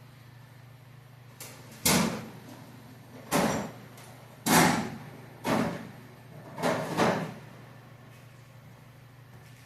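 Five loud knocks at uneven intervals, each dying away within about half a second, the last one doubled.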